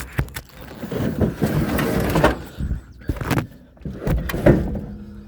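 Knocks, clicks and scraping from things being handled and moved about, busiest for a second or so after the start.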